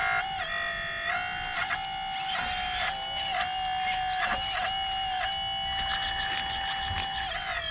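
Small electric hydraulic pump of an RC model excavator whining steadily. Its pitch sags briefly about once a second as the valves load it, with short high chirps and clicks from the working machine.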